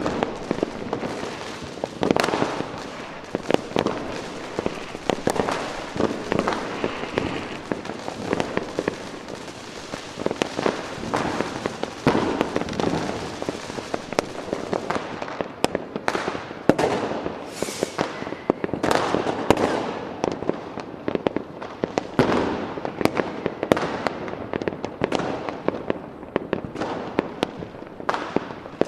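Fireworks display: many bangs in quick, irregular succession, overlapping with crackling and rumble in between.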